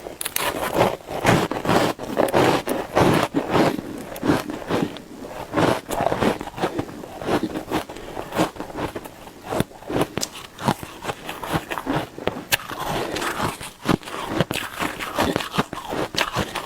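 Shaved ice being bitten and chewed: rapid crisp crunching and crackling, with an occasional sharp click.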